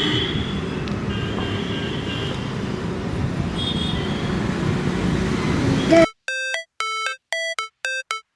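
Roadside background noise with a low hum, likely traffic, for about six seconds. It then cuts abruptly to a clean electronic beeping melody: short ringtone-like notes, about two a second, alternating between a lower and a higher pitch with silent gaps.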